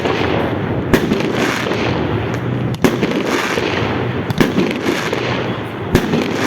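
Fireworks going off: four loud sharp bangs about every one and a half to two seconds, with smaller pops, over a continuous noisy background.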